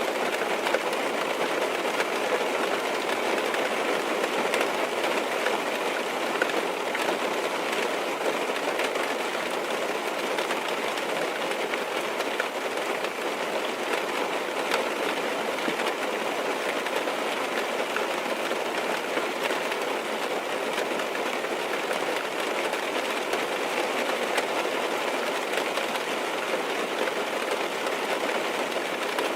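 Steady rain tapping on a car's roof and windows, heard from inside the car: an even hiss dense with small drop ticks.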